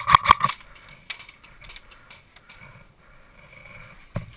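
Airsoft gun firing rapid shots, a quick burst at the start and another burst near the end, with a few scattered clicks between.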